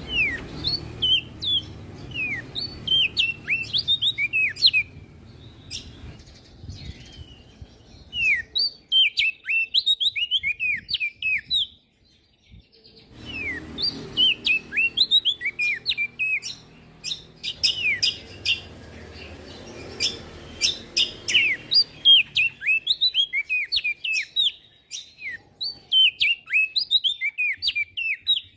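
Prenjak daun songbird singing fast, chattering phrases of sharp high chirps, many of them falling in pitch, in several long bursts with short pauses between.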